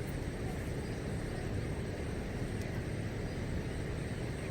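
Steady low rumbling outdoor background noise, even and unbroken, with no distinct events.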